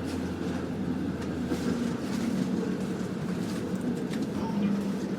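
Interior of a streetcar running along its rails: a steady rumble and hum of the car, with scattered faint clicks and rattles.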